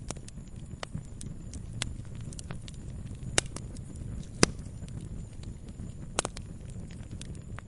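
Campfire crackling: irregular sharp pops and snaps of burning wood over a low, steady rumble of flames. The loudest pops come a little before and a little after the middle.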